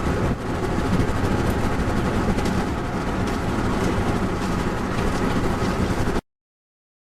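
Steady road and engine noise heard from inside a moving car, cutting off abruptly about six seconds in.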